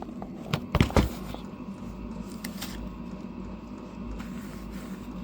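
A cluster of three or four sharp knocks close together just under a second in, then a couple of faint ticks, over a steady low hum.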